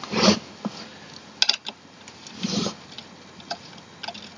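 Scattered light clicks and ticks with a couple of short scrapes: screws, tools and chair parts being handled during assembly of a gaming office chair.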